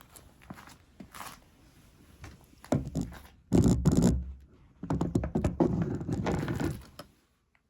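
Rustling, crackling handling noise with knocks, in three bursts; the middle one, about three and a half seconds in, is the loudest.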